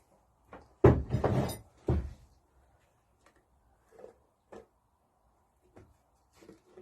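Water hopper cover of a Lister D engine being handled on the bench: a loud scraping clatter lasting about a second, starting about a second in, then a few light knocks.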